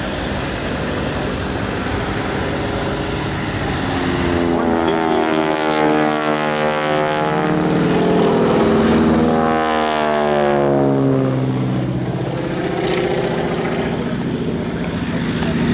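The Harvard T-6's Pratt & Whitney nine-cylinder radial engine and propeller in a fast low pass. The sound swells as the aircraft approaches and drops in pitch as it passes, about ten seconds in.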